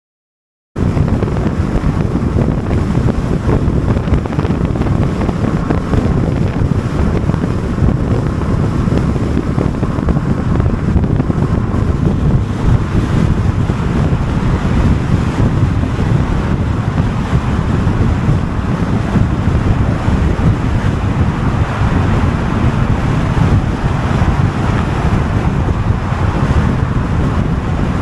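Strong wind buffeting the microphone over waves washing onto a pebble beach, a steady rush heaviest in the low end. It cuts in abruptly about a second in.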